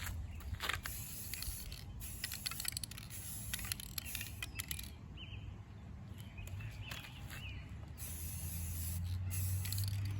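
Hissing that starts and stops in bursts, mixed with scattered clicks and scrapes over a steady low hum.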